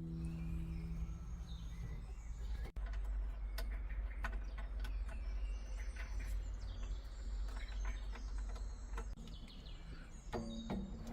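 Small birds chirping and singing, scattered short calls over a steady low outdoor rumble.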